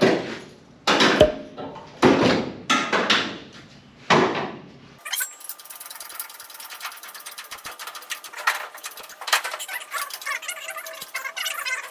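About six hammer blows on sheet metal, each ringing briefly, beating a car body panel back into shape. About five seconds in, the sound changes to a thinner, rapid ticking with no low end.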